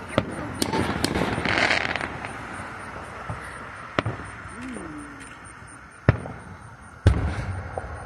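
Aerial fireworks shells bursting overhead: half a dozen sharp bangs spaced a second or more apart, with a stretch of crackling about a second in, and the loudest bangs near the end.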